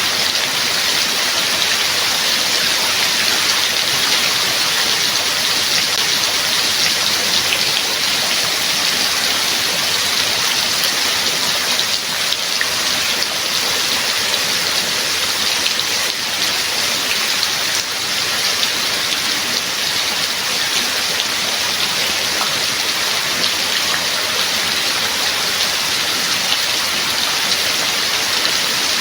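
Steady rain falling: a dense, even hiss of drops with no thunder or other events.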